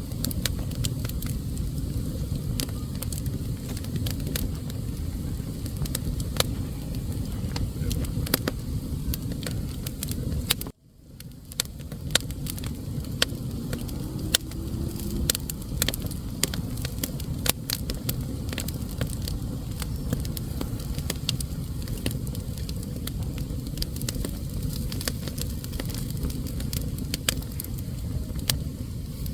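Wood fire burning in a fireplace: a steady low rumble of flames with frequent sharp crackles and pops. The sound cuts out for a moment about eleven seconds in and fades back in.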